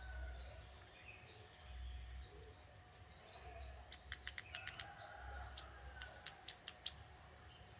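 A young male ciblek tebu (a prinia) calling faintly: a series of short high chirps, then a quick run of sharp clicking notes about halfway through.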